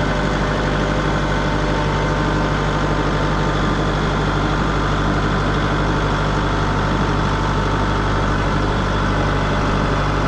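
Engine idling steadily at an even, unchanging speed.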